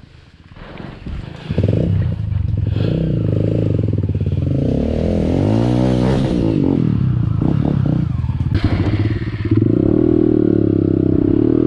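Dirt bike engine revving, its pitch rising and falling again and again. It comes in about a second and a half in and grows louder in the last couple of seconds.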